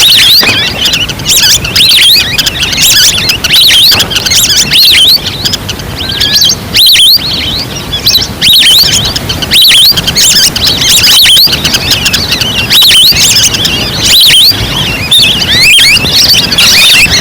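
Lure-call recording of a flock of ducks calling loudly and continuously: many overlapping short, high chirps that rise and fall, used to draw ducks in.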